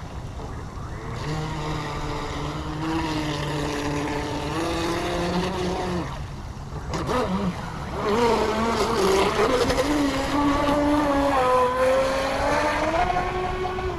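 Brushless electric motor of a radio-controlled speedboat whining as the boat runs on the water, its pitch rising and falling with the throttle. The whine drops away about six seconds in, then comes back higher and louder.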